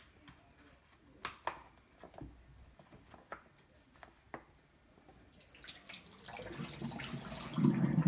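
A few light clicks and handling noises, then from about five seconds in a tap runs, the water getting louder and fuller as it pours into a reusable zip storage bag.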